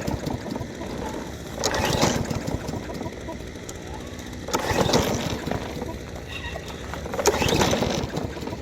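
Briggs & Stratton 150cc push-mower engine being pull-started three times, each pull a burst of rapid cranking strokes about a second long that dies away without the engine catching: a mower engine that will not start.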